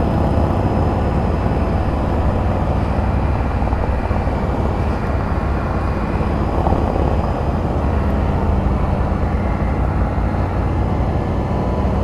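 Can-Am Spyder RT running steadily under way, its engine note under a heavy low rumble of wind on the microphone.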